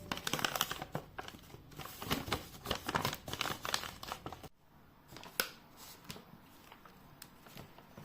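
Hands working crinkly material, a dense run of crinkling and crackling for about four and a half seconds, then a sudden drop to a quieter stretch with a few light taps and one sharper tap.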